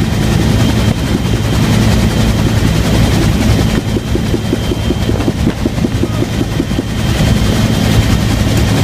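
Bell UH-1 Huey helicopter in flight: the rotor blades beat in a fast, even rhythm over the steady drone of the turbine, loud and constant.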